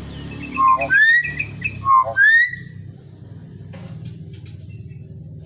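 Common hill myna giving two loud whistled calls about a second apart, each a short low note that sweeps up into a rising whistle.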